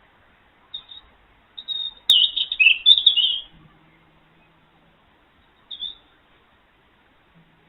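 Small bird chirping in short high calls, with a loud run of quick chirps about two seconds in that starts with a sharp click, and a single chirp near the end.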